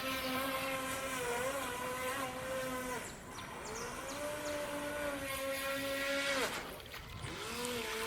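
Mini radio-controlled speedboat's small electric motor whining at high speed, easing off and dropping in pitch about three seconds in, coming back up, then dropping again about six and a half seconds in before rising once more near the end.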